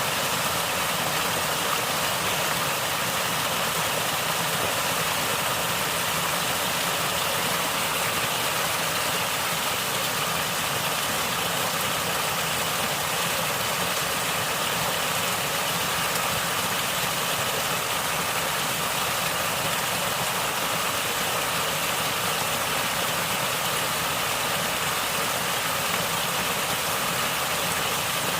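Natural water flowing and gurgling in a steady, unbroken rush, as of a stream or small cascade.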